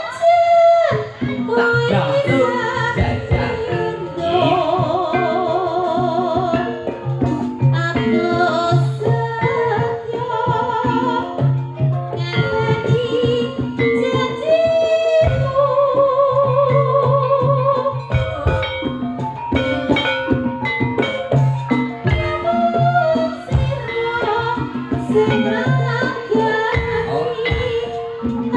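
Live dangdut kreasi music for an ebeg horse-dance show: a wavering sung melody over a steady drum beat, played loud through a sound system.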